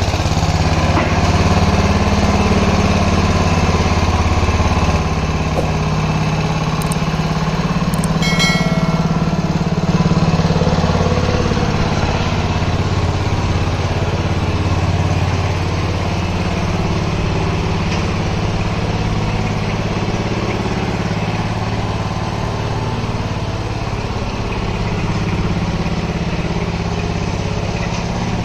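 An engine running steadily at an even pitch, with a brief high-pitched tone about eight seconds in.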